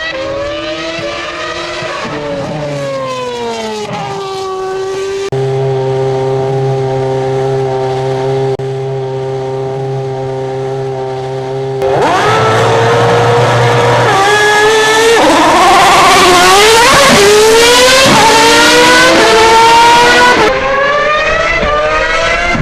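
Racing car engines revving up and down in long glides, holding a steady pitch for several seconds in the middle, then growing louder with several engines revving over one another from about halfway.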